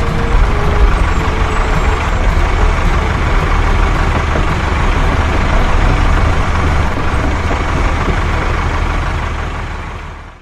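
Truck engine running steadily with a deep rumble, fading out just before the end.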